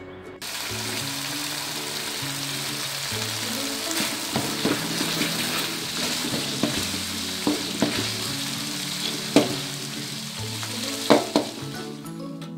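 Spice paste sizzling as it fries in oil in a metal wok, with a metal spatula scraping and tapping against the pan now and then as it is stirred. The sizzle starts suddenly about half a second in and cuts off just before the end.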